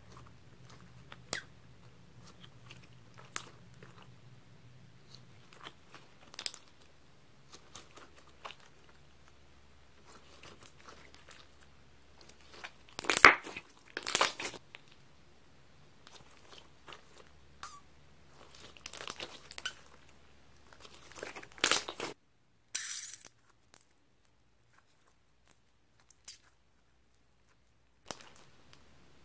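Scissors cutting through high-elasticity foam sponge: scattered crisp snips and crunches, with louder bursts of cutting around the middle and again a few seconds later, then a stretch of silence near the end.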